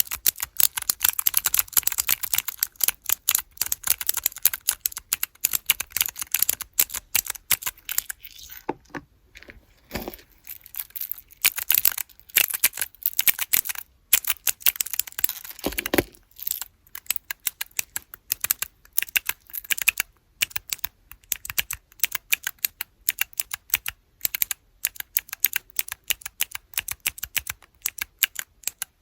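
Clicky blue mechanical key switches in small keychain keyboard blocks pressed in fast, dense runs of sharp clicks. The clicking thins out twice, each time with a duller knock.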